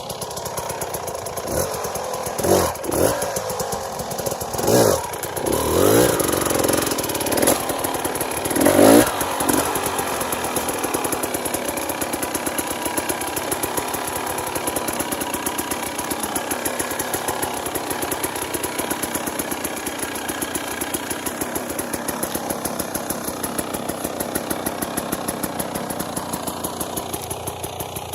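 Dirt bike engine revved in a series of short bursts over the first ten seconds or so, then running steadily at a low, even throttle.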